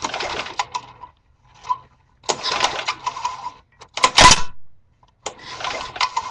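Lawn mower's recoil starter cord pulled four times, turning the engine over with a clattering mechanical noise at each pull; the third pull is the loudest.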